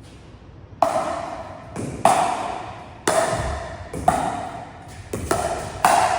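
Pickleball paddles hitting a hollow plastic pickleball back and forth in a rally: sharp pops about once a second, each ringing and echoing in a large hall.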